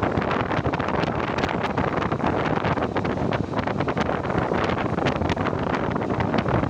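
Biscuit production line machinery running: a loud, steady noisy roar with many quick clicks and rattles through it.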